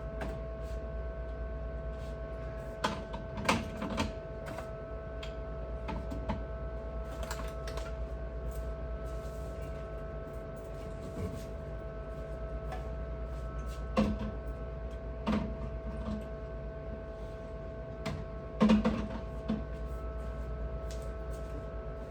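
Scattered sharp clicks and knocks of hard objects being handled and set down, over a steady hum with a few fixed tones.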